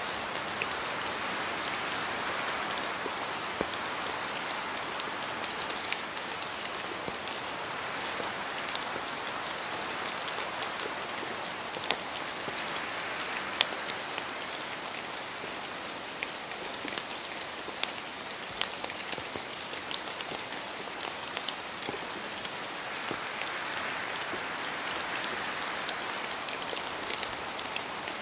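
Steady rain falling, an even hiss dotted with many sharp, separate drop hits.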